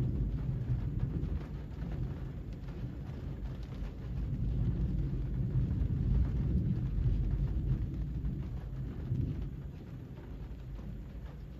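Rain falling steadily under a long, low rumble of thunder that swells twice and dies away near the end.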